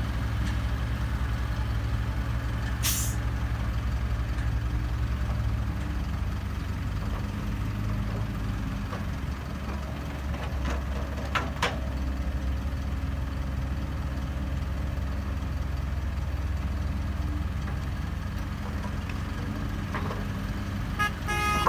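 Diesel engines of a SANY SY135-9 excavator and a dump truck running steadily. A short air-brake hiss comes about three seconds in, and a quick run of beeps near the end.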